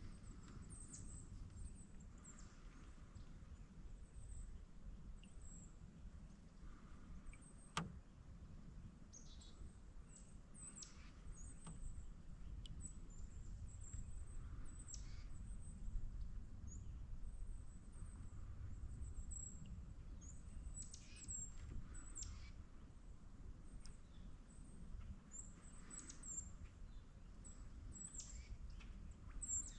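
Small birds calling with many short, very high, thin chirps and quick downward-sweeping notes, over a low steady rumble, with a single sharp click about eight seconds in.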